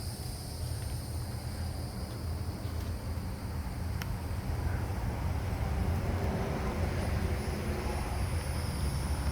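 Outdoor background noise: a steady low rumble that grows slightly louder through the second half, under a constant faint high-pitched whine.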